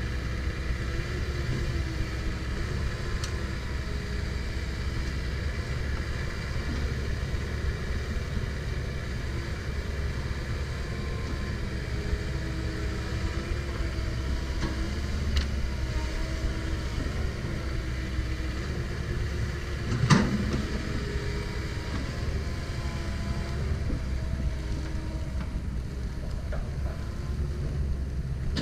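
Komatsu PC170LC-10 excavator's diesel engine running with a steady low rumble, its pitch wavering up and down as the machine works. A single sharp knock comes about twenty seconds in.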